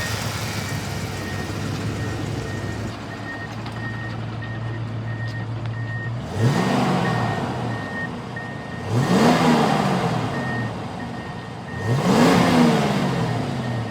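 1993 Ford Mustang GT's V8 idling steadily, then revved three times, each blip rising and falling back to idle, about three seconds apart. A steady beeping chime repeats about twice a second behind it.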